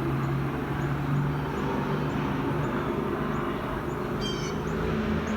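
Grackles calling: two short, high calls with several pitches stacked, about four seconds in, over a steady low hum.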